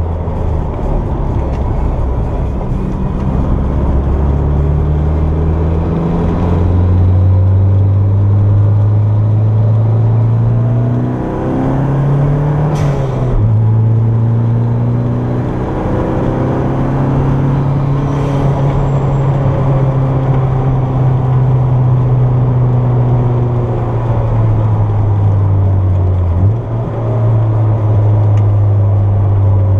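Turbocharged Toyota MR2 engine under load, heard from inside the cabin while lapping a track. The revs climb and fall, with a quick rise and drop around the middle and a short break in the sound near the end, as at a gear change.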